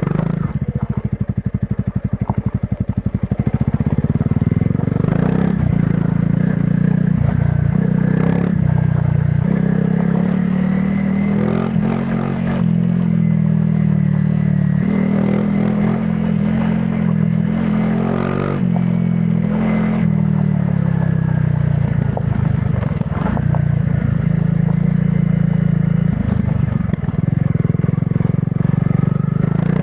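Honda CRF300 Rally's single-cylinder four-stroke engine through its stock exhaust. For the first few seconds it chugs at low revs, with each firing pulse audible, then it runs steadily with small rises and falls in revs. Occasional knocks and rattles come through as the bike goes over rough ground.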